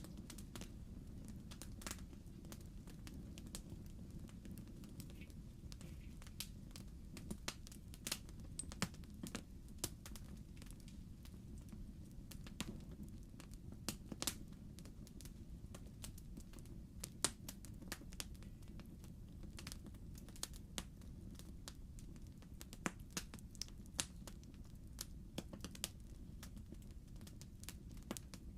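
Logs burning in a fireplace, crackling: irregular sharp pops and snaps over a steady low rumble of the fire.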